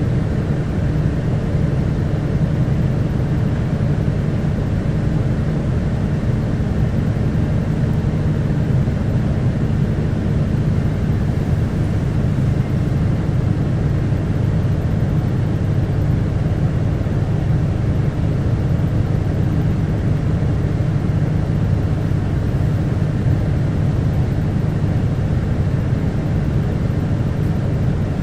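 QKG-KV290N1 city bus's diesel engine and drivetrain running steadily, heard from inside the passenger cabin, a constant low drone with no gear changes or stops standing out.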